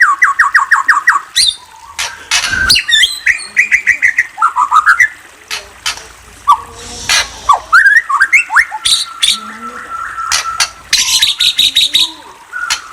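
A songbird singing a varied song: fast runs of repeated notes, rising whistled notes and sharp clicks, with a few brief pauses.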